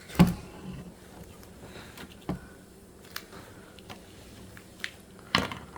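A few sharp, short taps or clicks at irregular intervals. The loudest comes just after the start and another strong one near the end.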